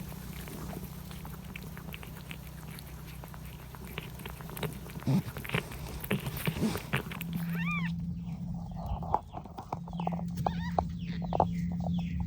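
A young chick peeping, a run of short high chirps that drop in pitch, from about eight seconds in. Before that come scattered light ticks and taps over a low steady hum.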